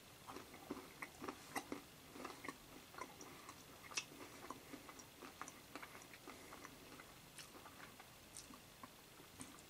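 A person chewing a homemade milk-chocolate piece set with crunchy peanuts: soft, irregular crunching, closely spaced over the first few seconds and thinning out afterwards, with one sharper crunch about four seconds in.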